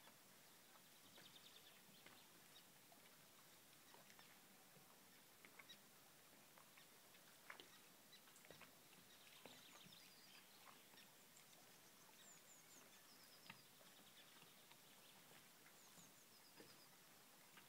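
Near silence with faint bird calls: short high trills and a few quick falling chirp series, among scattered soft ticks.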